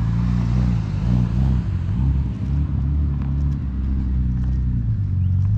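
Car engine running at low revs, its pitch wavering up and down in the first few seconds and then holding steady.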